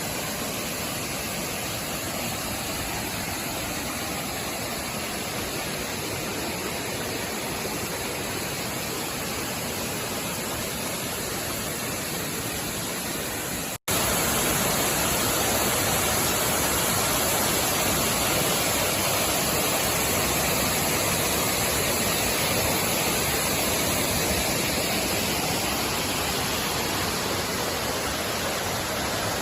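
Steady rushing water of a waterfall. It cuts out for an instant about halfway through and comes back louder.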